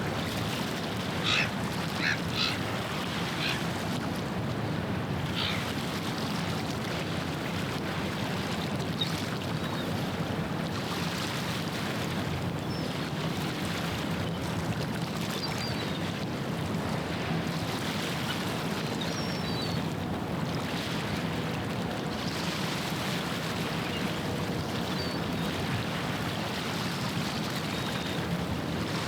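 Waterfront ambience: a passing ship's engine drone underneath steady water and wind noise, with a few short bird calls in the first few seconds and faint chirps later on.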